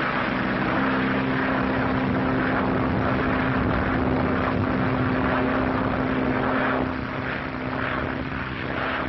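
Propeller airplane engines droning steadily in flight, as heard on an old film soundtrack, easing off a little about seven seconds in.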